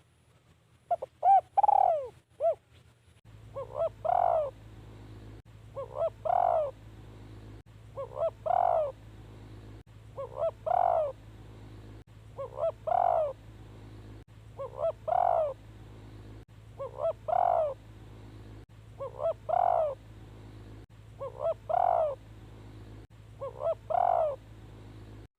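Spotted dove cooing, the decoy bird's call used to lure wild doves, repeating the same multi-note phrase about every two seconds. A steady low hum runs beneath from about three seconds in.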